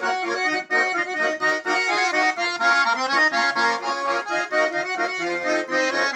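Russian garmon (button accordion) playing an instrumental melody with chords, the notes changing quickly.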